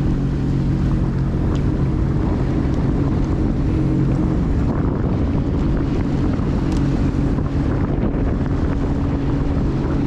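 Jet ski engine running at a steady speed, a constant drone, with wind buffeting the microphone.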